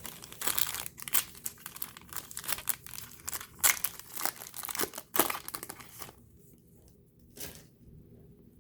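Plastic wrapper of a trading-card pack crinkling and tearing as it is opened by hand: a dense run of sharp crackles for about six seconds, then one short rustle near the end.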